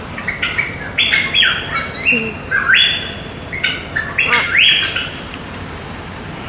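Parrot calling: a quick series of loud, short squawking whistles, several rising in pitch, that stops about five seconds in.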